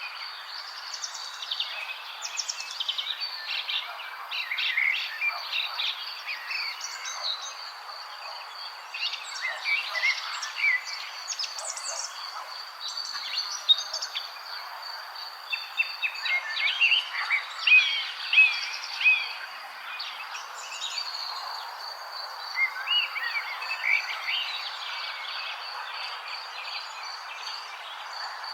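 Several songbirds chirping and singing in quick, overlapping phrases, busiest in the middle of the stretch. Behind them are a steady high trill, like an insect's, and a constant soft hiss.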